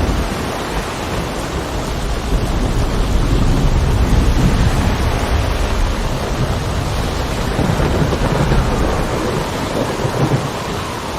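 Heavy rain and wind: a steady hiss over a deep rumble that grows a little louder a couple of seconds in.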